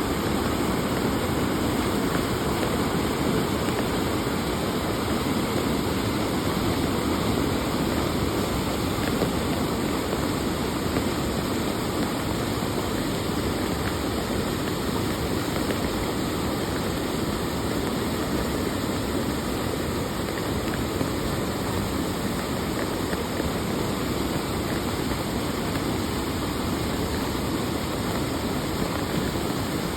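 Floodwater rushing: a steady, unbroken rush of moving-water noise.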